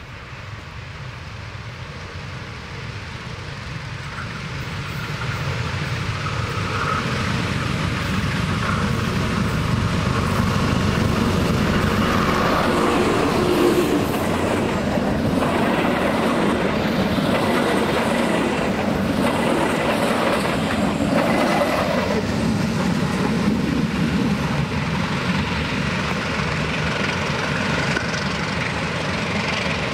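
A passenger train hauled by a diesel locomotive approaches and passes close by. It grows louder over the first several seconds, then holds a loud, steady rumble as the coaches' wheels clack over the rail joints going past.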